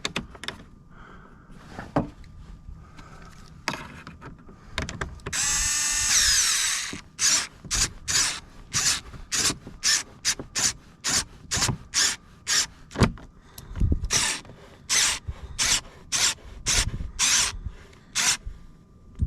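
Electric screwdriver running for about two seconds to drive a door-panel screw home. It is followed by a long series of evenly spaced ratcheting clicks, about two a second, as the screw is snugged tight.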